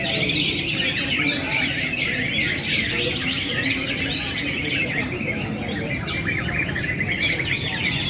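Dense chorus of many caged songbirds singing and chirping at once, their trills overlapping without pause, over a low murmur of crowd noise.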